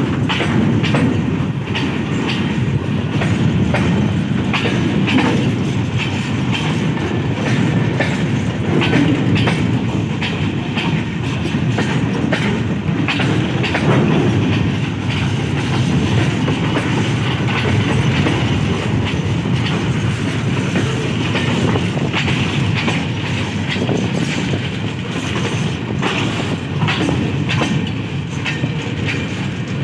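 Open-top freight wagons rolling past close by: a steady wheel rumble with the repeated clickety-clack of wheels running over rail joints.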